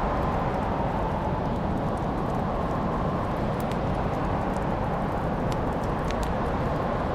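Wood fire crackling in a fireplace: a steady low rush of burning with sharp snaps scattered through it, several coming close together about halfway through and near the end.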